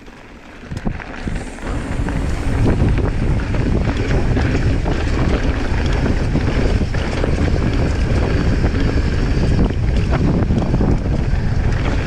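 Wind buffeting the microphone of a camera on a mountain bike riding downhill at speed, with scattered knocks and rattles from the bike over rough ground. It builds up over the first two seconds, then stays loud and steady.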